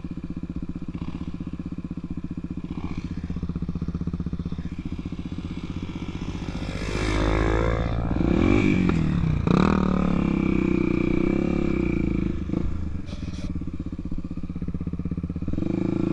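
Honda Tornado 250 single-cylinder four-stroke motorcycle engine running under way. Its note swings up and down in pitch and gets louder about seven to ten seconds in, as the throttle is worked.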